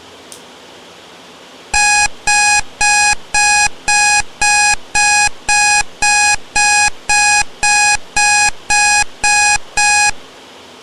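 Digital alarm or timer beeping: about sixteen identical short, high-pitched beeps at a steady two a second for some eight seconds, marking the end of the 40-minute study session. Steady white noise runs underneath.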